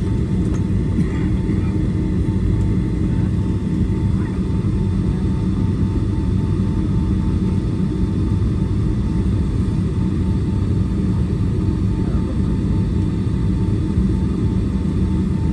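Steady low rumble inside the cabin of a Boeing 757-300 airliner on the ground after landing, with a faint steady hum on top.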